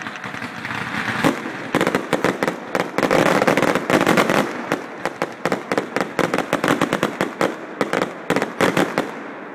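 Fireworks display: a dense barrage of sharp bangs and crackling. It builds over the first couple of seconds and dies away just before the end.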